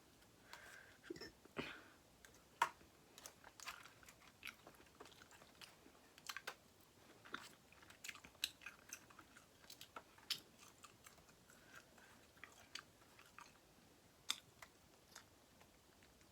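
A person chewing and biting seafood-boil food close to the microphone: faint, irregular mouth clicks and smacks, several a second.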